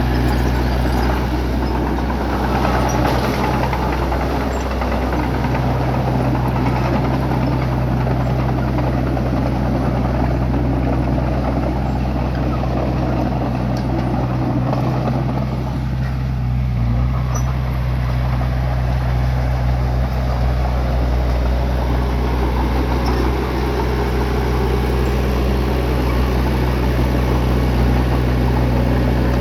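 Bulldozer's diesel engine running steadily, a constant low engine hum under a rough, noisy layer that eases briefly just past the middle.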